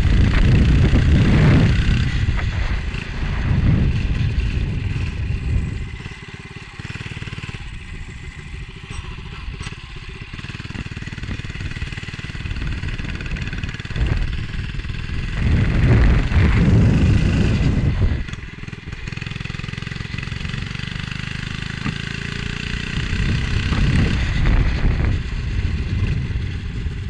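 Motovox MBX11 minibike engine running while riding, with heavy wind buffeting on the helmet-mounted microphone that swells and fades, loudest at the start, about sixteen seconds in, and near the end.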